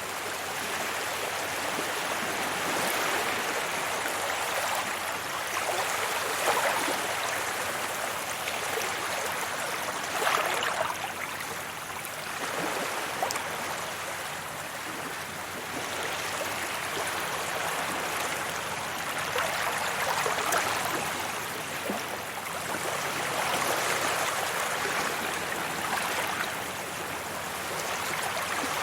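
Sea waves washing onto a beach: a continuous rush of surf that swells and eases every few seconds.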